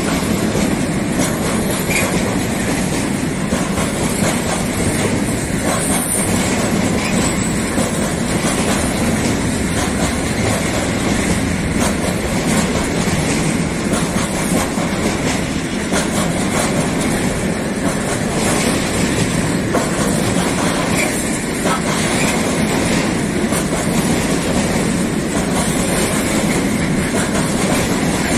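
Freight train of tank wagons rolling past, its wheels running steadily on the rails.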